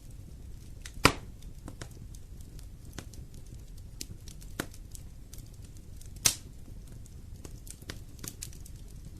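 Wood fire burning in a fireplace: scattered small crackles over a soft low noise, with two sharp, loud pops, about a second in and again just after six seconds.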